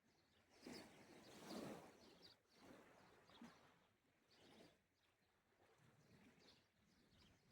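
Faint, gentle sea waves washing in soft swells about once a second, with faint bird chirps.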